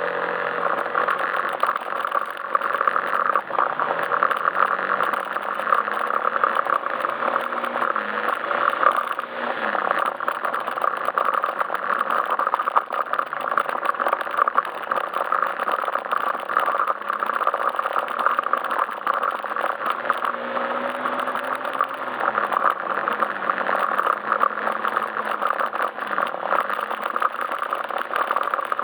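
Yamaha Majesty S scooter's single-cylinder engine running under way, its pitch rising and falling with the throttle, under constant road and wind noise with a fine rattling.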